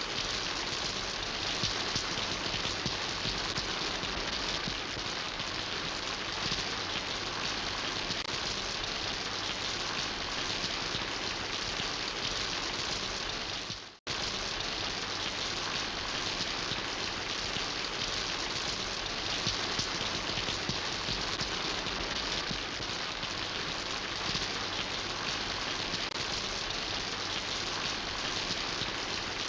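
Steady rain falling and pattering on surfaces. About halfway through, the sound fades out for a moment and then comes straight back.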